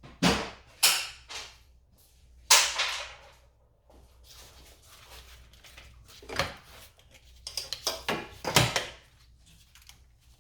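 Hand tools and parts being handled during engine work: a string of sharp knocks and clatters, the loudest about two and a half seconds in, with a quick run of clatters near the end.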